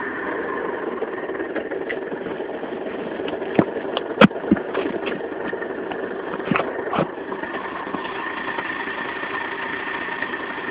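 Rieju RS2 Matrix's tuned 50cc two-stroke engine idling steadily. A few sharp clicks or knocks come through the middle, the loudest about four seconds in.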